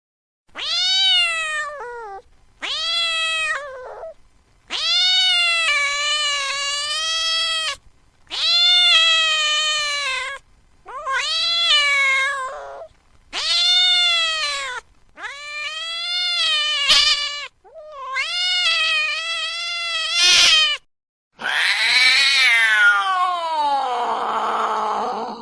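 Domestic cat meowing in long, drawn-out wailing cries, nine calls in a row with short pauses between them. The last cry slides down in pitch.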